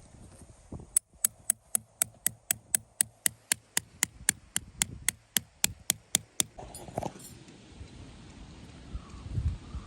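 A hammer tapping quickly on metal: about twenty sharp, ringing strikes at roughly four a second, stopping about six and a half seconds in.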